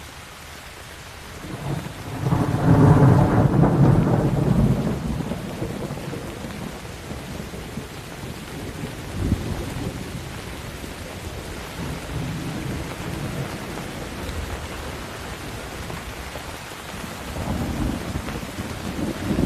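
Steady rain with a thunderclap rumbling in about two seconds in, peaking, then rolling away over several seconds; fainter rolls of thunder follow later.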